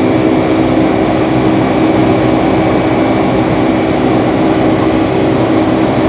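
Boeing 757-300 jet engines running steadily, a loud, even roar with a constant hum and a high whine, heard from inside the passenger cabin.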